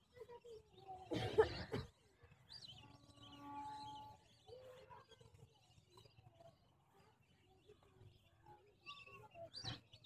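Waterbirds calling faintly with short chirps and rising whistles, including a pair of whistles near the end. A louder harsh burst comes about a second in, and a steady horn-like tone sounds for about a second around three seconds in.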